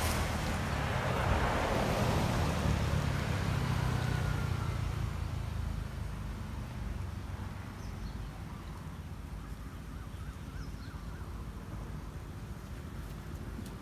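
A motor vehicle passing close by: its engine and tyre noise swell in the first few seconds, then fade away. Faint chirps follow over a quieter steady background.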